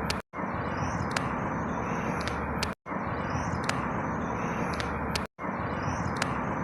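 Outdoor ambience: a steady low rumble and hiss with a few faint high chirps, a short clip looped about every two and a half seconds, cutting out briefly at each repeat.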